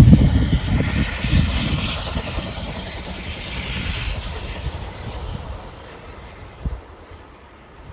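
Steam train passing and moving away, its rumble and hiss with a few low exhaust beats fading steadily.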